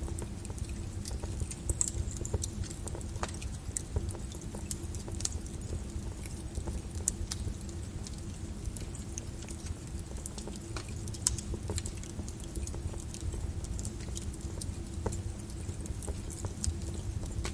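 Wood fire crackling, with many scattered sharp pops, over a steady low rumble and a soft, even hiss of rain.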